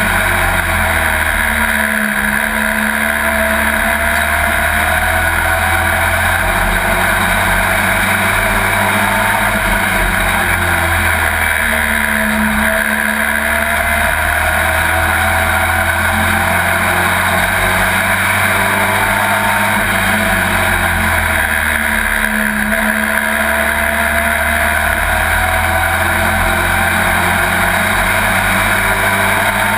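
Pro Truck race truck's engine heard from inside the cab at racing speed, its pitch dipping and climbing again about every ten seconds as it lifts for the turns and accelerates down the straights.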